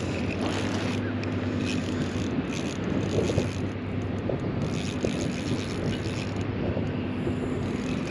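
Fishing reel drag clicking in spurts as a hooked steelhead takes line, over a steady low hum and wind noise.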